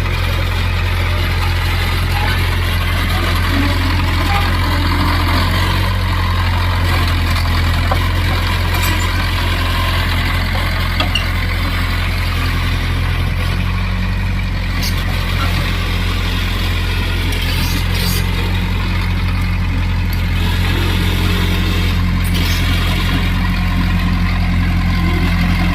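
Diesel engine of a Cat bulldozer running steadily with a low drone, its note shifting slightly about halfway through.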